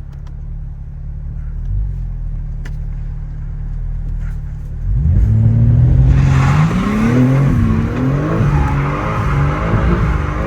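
BMW G80 M3's twin-turbo inline-six idling, then from about five seconds in revved hard, its pitch climbing and wavering, with a loud rushing noise joining about a second later as the car is spun.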